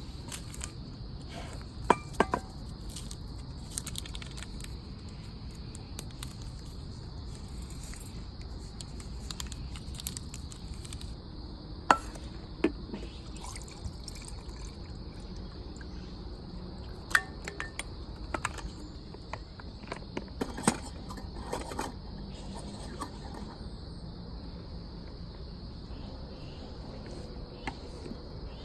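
Crickets chirping steadily, with a few sharp clicks and clinks scattered through, the loudest about two, twelve, seventeen and twenty-one seconds in.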